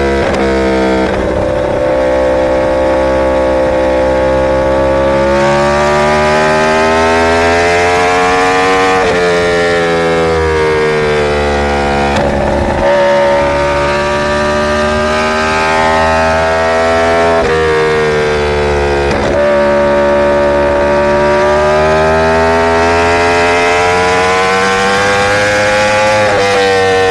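Inline-four superbike engine running under way, its revs climbing and falling repeatedly, with abrupt breaks in pitch every few seconds.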